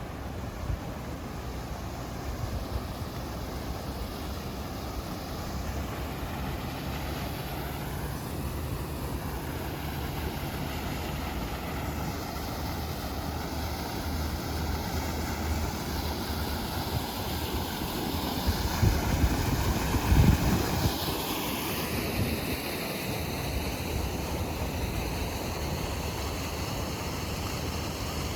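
Steady rushing noise with wind buffeting the microphone, the low rumble gusting hardest about twenty seconds in.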